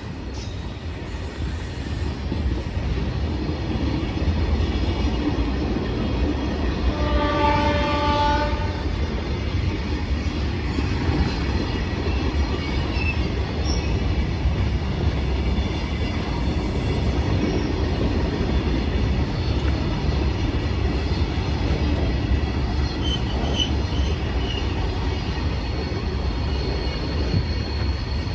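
Goods train running with a steady low rumble, its horn sounding once for under two seconds about seven seconds in.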